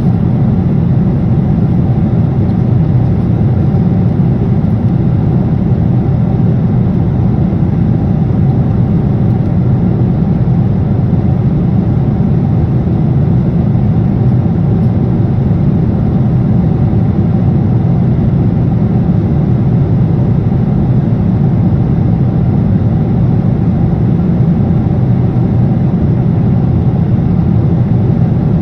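Steady cabin noise of a jet airliner in flight: engine and airflow noise heard from a passenger seat, a loud, even low rumble that holds unchanged throughout.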